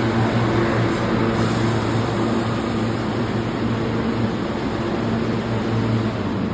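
New York City subway train in the station, a steady low electrical hum over a broad rumble.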